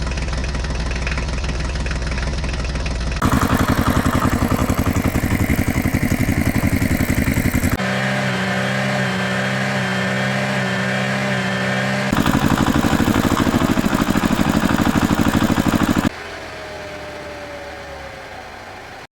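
Vehicle engine sound effects spliced one after another, switching abruptly every few seconds: a low idle, then a louder, faster-pulsing engine, a steadier droning engine note, the pulsing engine again, and a quieter stretch near the end.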